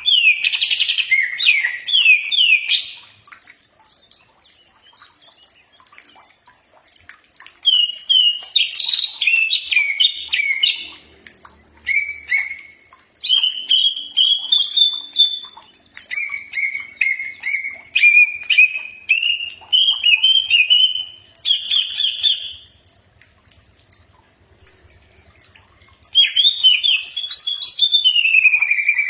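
Cucak ijo (green leafbird) singing in bursts of quick, sliding, chirpy notes, with short pauses between phrases.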